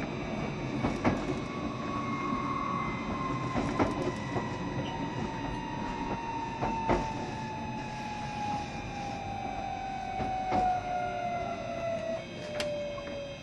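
Cabin running sound of a JR Shikoku 7200 series electric train: a motor whine that falls steadily in pitch as the train slows, over the steady rumble of the wheels on the rails. Occasional sharp clicks come from the wheels crossing rail joints.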